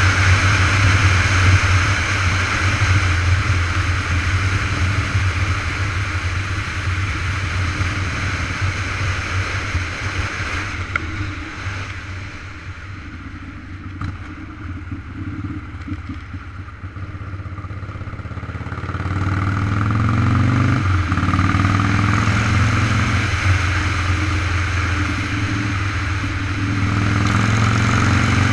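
Motorcycle engine running on the road, with wind rushing over the microphone. It quietens for several seconds midway, then picks up again about two-thirds of the way through, the engine note rising as it accelerates.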